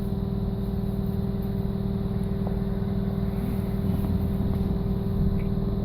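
BKM-221 trolleybus heard from inside the passenger cabin: a steady electric hum made of several even tones over a low rumble.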